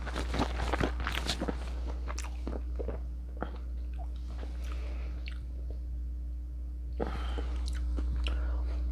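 Close-up chewing of a bite of fresh shrimp spring roll (rice paper wrapper around lettuce, cabbage, carrot and rice noodles), heard as a string of short wet mouth clicks. The clicks are densest in the first few seconds, ease off, then pick up again near the end, over a steady low hum.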